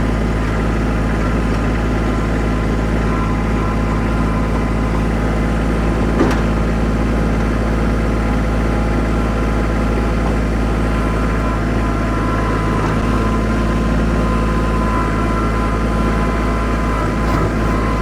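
Tractor engine running steadily, driving a PTO-powered rotary tiller through garden soil, with a brief sharp knock about six seconds in.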